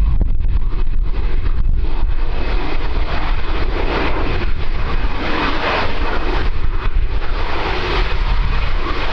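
Fixed-wing aircraft engines running, a continuous noise that swells in the middle, with wind buffeting the microphone.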